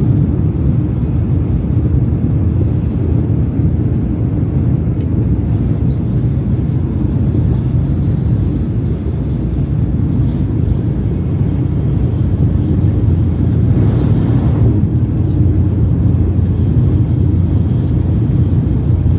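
Steady low rumble of a Shinkansen bullet train running at speed, with a brief swell of hiss about fourteen seconds in.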